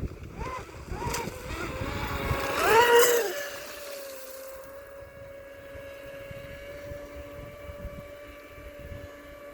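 RC speedboat's brushless electric motor whining as the throttle is blipped several times, the pitch rising and falling with each burst. The loudest burst, about three seconds in, comes with a rush of spray. After that the motor settles into a steady, quieter whine as the boat runs on.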